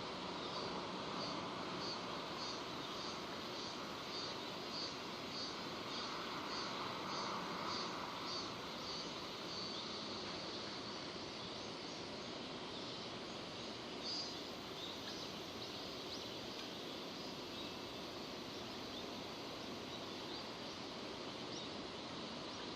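Steady rain falling, an even hiss. A bird calls over it with a short high chirp repeated about once or twice a second for roughly the first ten seconds.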